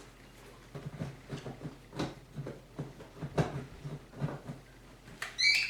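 Hog ring pliers clicking and a vinyl seat cover rustling as hog rings are crimped along a seam, a series of short clicks and knocks. A short high squeak near the end.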